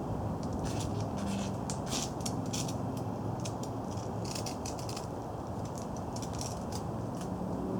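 Irregular dry scratching and crackling, several times a second, as a campfire is lit with birch-bark tinder and a fire striker.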